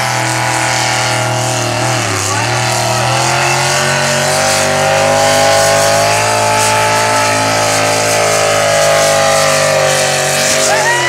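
A 1954 Ford pull truck's turbocharged engine held at high revs under full load while pulling the sled. The revs dip briefly about two seconds in and recover, then fall away sharply at the very end as the pull finishes.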